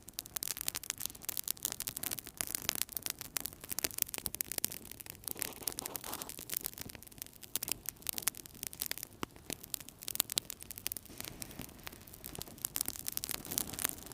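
Wood fire burning in a fireplace, crackling and popping with dense, irregular sharp cracks over a soft steady rush of flame.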